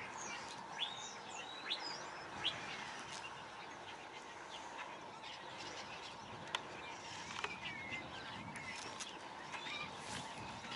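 Small birds chirping: many short calls and quick whistled glides, three of them louder and sharper in the first few seconds, over steady outdoor background noise.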